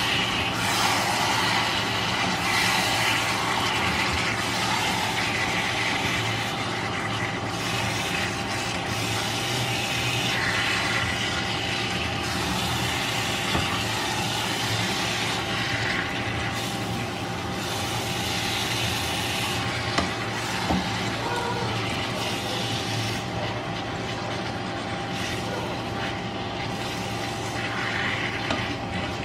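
Chicken pieces with onion and tomato sizzling steadily in a non-stick wok as they are stirred with a spatula, over a steady low hum.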